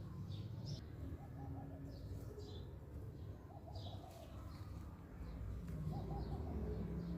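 Birds calling: short high chirps repeat throughout, and a lower pulsed, cooing call comes back every couple of seconds, over a steady low hum.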